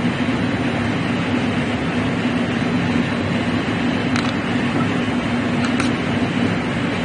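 Steady machine hum with a constant low tone, with a couple of faint clicks.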